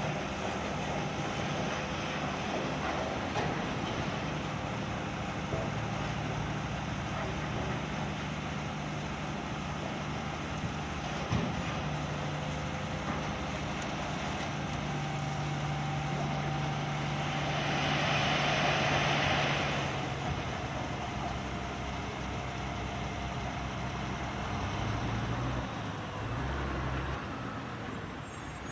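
Scania P460 XT dump truck's diesel engine running steadily while the truck unloads its coal. About two-thirds of the way through, a rushing hiss swells for a couple of seconds, and near the end the engine note shifts up and down.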